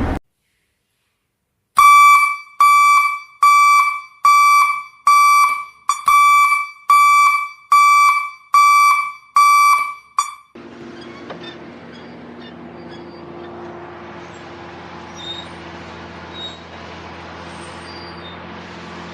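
An alarm-like tone beeping about a dozen times in an even rhythm, roughly one and a half beeps a second, each beep dying away quickly. It is followed by a steady low mechanical hum, like an engine running.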